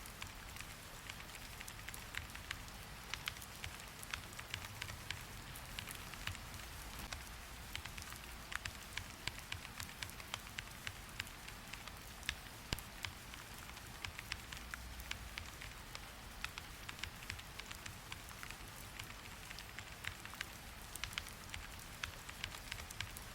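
Steady rain: an even hiss with many small, irregular ticks of drops striking a surface.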